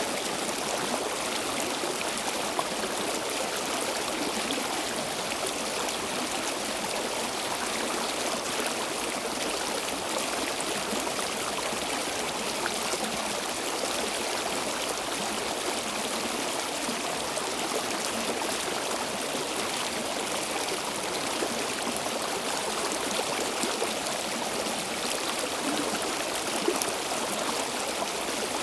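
Stream water flowing and babbling over stones, steady and unbroken.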